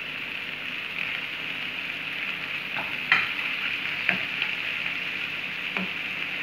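Onion, tomato and capsicum masala sizzling steadily in a frying pan as a wooden spatula stirs it, with a few light knocks of the spatula against the pan.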